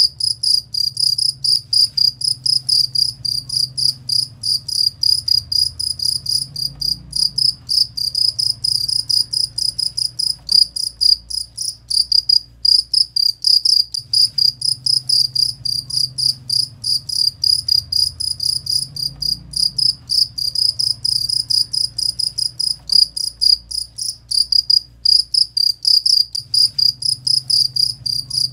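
Cricket (jangkrik) chirping: a steady, high-pitched train of short chirps, about three a second, with a faint low hum beneath.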